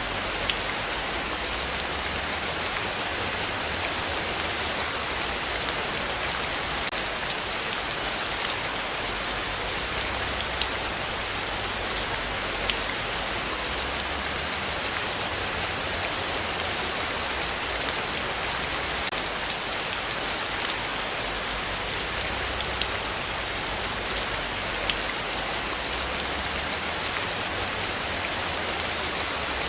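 Heavy rain falling steadily, a dense hiss of drops with many small drop ticks on surfaces.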